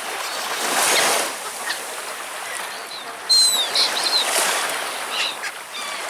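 Small Baltic Sea waves washing at the shore, swelling about a second in and again near the middle, with a few short, high bird calls falling in pitch about three seconds in.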